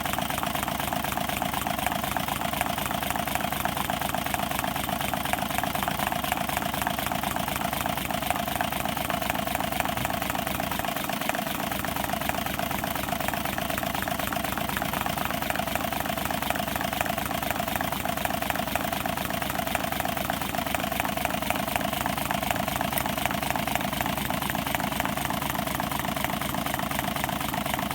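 Homemade water-cooled six-cylinder Stirling engine running steadily, with a fast, even mechanical clatter.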